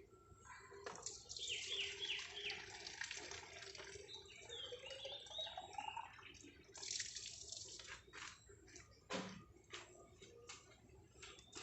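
Faint bird sounds at the nest: a quick run of short falling chirps, then a rising whistle, amid scattered clicks and rustling.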